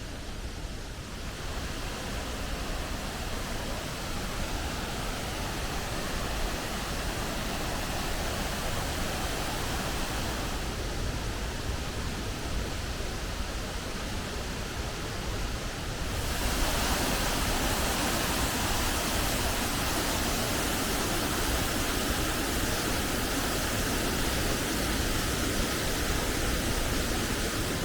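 Waterfall rushing steadily, a dense, even noise of falling water that grows louder and brighter a little over halfway through.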